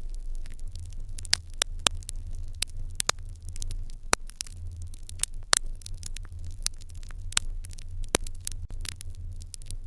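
Fire crackling in an irori hearth: irregular sharp pops and snaps, several a second, some louder than others, over a steady low rumble.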